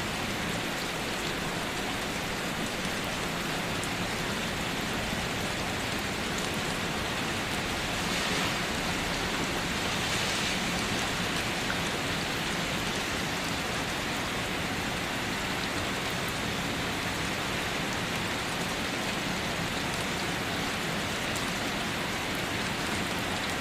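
Steady rain falling, an even hiss of drops with slight swells in intensity.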